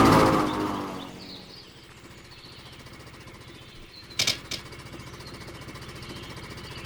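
Cartoon sound effect of a backpack propeller's small motor: a rapid putter that is loud at first and dies away within about a second and a half, then ticks over faintly and steadily, with two sharp clicks a little after four seconds.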